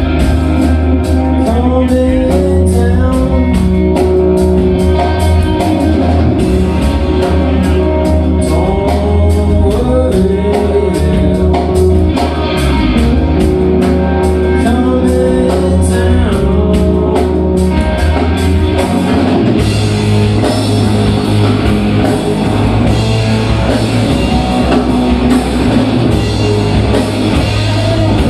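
A rock band playing live, with singing over electric guitar, bass and a drum kit. About two-thirds of the way in, the band moves into a new section with a different bass line, and the singing fades back.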